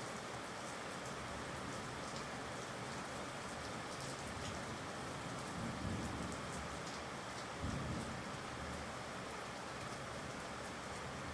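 Steady heavy rain with scattered sharp drop ticks, and two brief low rumbles, about six and eight seconds in.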